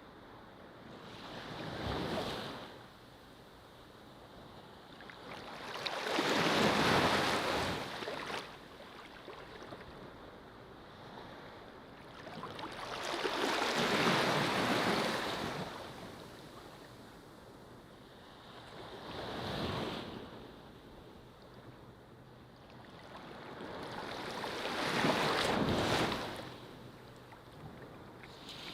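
Ocean waves washing onto a beach, rising and falling in five swells, one about every six seconds.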